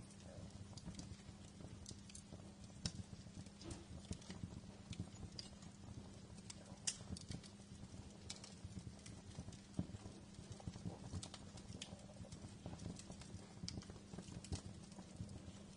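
Wood fire crackling in a fireplace: irregular sharp snaps and pops, a couple standing out louder, over a low steady background of the burning fire.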